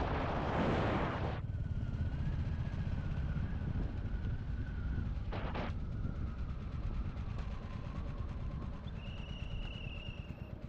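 Royal Enfield Classic 350's single-cylinder engine running under way, its exhaust thumping with a fast, even beat. Wind hits the microphone in gusts at the start and again about five seconds in.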